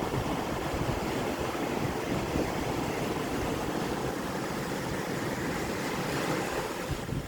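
Steady rush of sea water, with wind buffeting the microphone.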